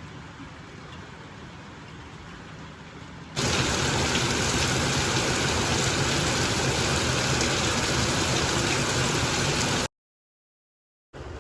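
Rain falling steadily: softer at first, then much louder and heavier from about three seconds in, cutting off to silence for about a second near the end before the softer rain returns.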